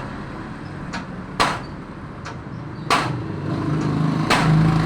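Hammer blows, single sharp strikes about every second and a half, three in all. Under them an engine hum grows louder toward the end.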